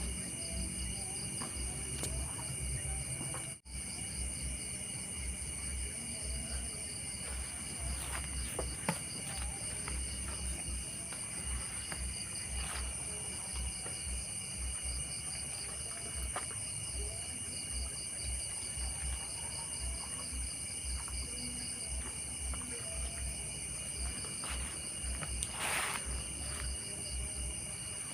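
Night insect chorus of crickets: several steady high-pitched trills layered together, one of them pulsing rapidly, with an irregular low rumble on the microphone underneath.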